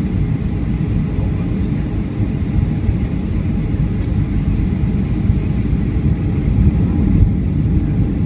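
Steady low rumble of a Boeing 757-200's cabin: jet engine and airflow noise heard from inside the airliner, with a faint steady whine above it.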